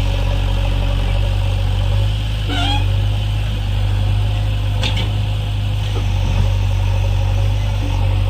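JCB backhoe loader's diesel engine running steadily, with two brief sharper sounds in the middle.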